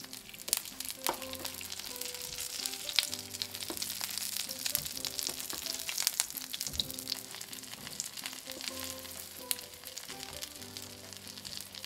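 Egg-battered oysters sizzling in oil in a frying pan, with scattered sharp clicks as wooden chopsticks lift the pieces out. Soft background music with slow held notes plays underneath.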